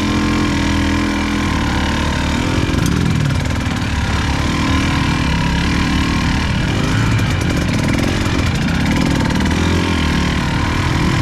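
Dirt-bike engine running at low, slightly wavering revs, its pitch rising and falling gently as the bike is ridden slowly over rough ground.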